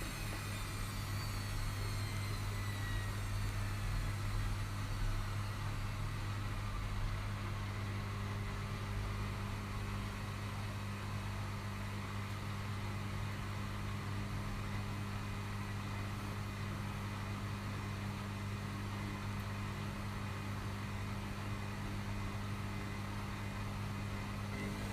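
Washing machines running with a steady low hum. A high motor whine falls away in the first few seconds, and a rising whine starts at the very end as a drum speeds up again.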